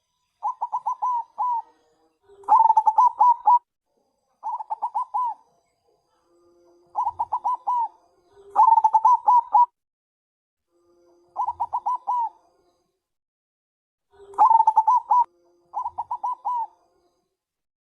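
Zebra dove (perkutut bangkok) cooing in repeated phrases: eight bursts of quick staccato notes, each burst about a second long, with short pauses between. It is the calling type of song, used as a lure to get other doves to answer.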